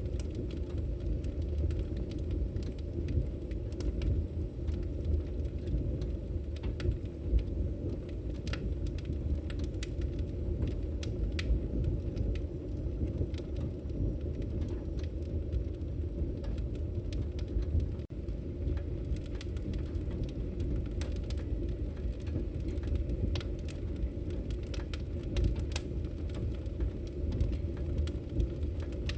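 Wood fire crackling in a fireplace: a steady low rumble with scattered sharp pops and snaps at irregular intervals.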